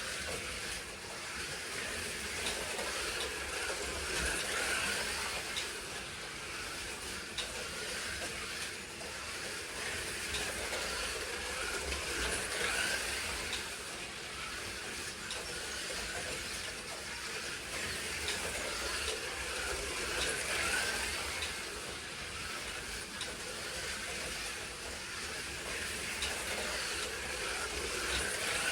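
Two BMW M1 slot cars racing round a track: small electric motors whining and pickup braids hissing on the metal rails. The sound swells and fades every few seconds as the cars come past.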